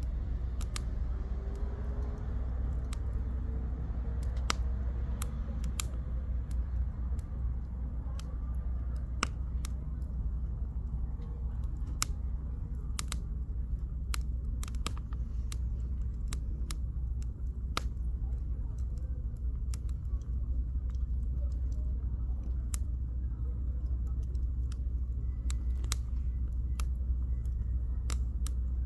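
Firewood burning in a campfire, crackling with scattered sharp pops, over a steady low rumble.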